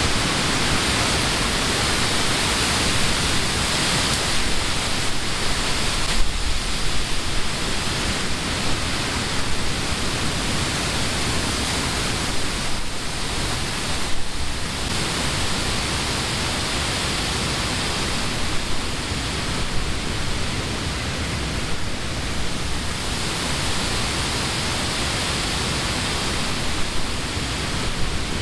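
Wind blowing through the leafy trees of a summer wood: a steady rushing hiss that swells and eases a little in gusts.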